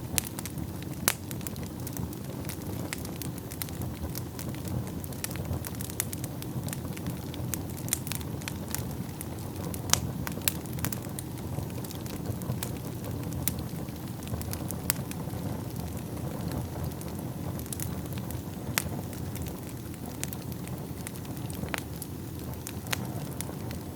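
Wood fire burning in a fireplace: a steady low rumble of flames with frequent sharp crackles and pops at irregular intervals, a louder pop about ten seconds in.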